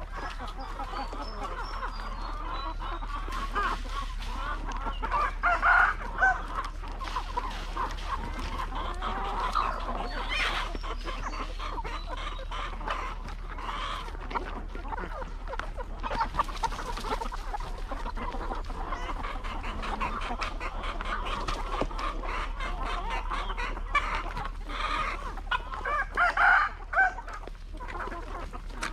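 A flock of hens clucking continuously, with louder calls standing out about five to six seconds in and again near the end.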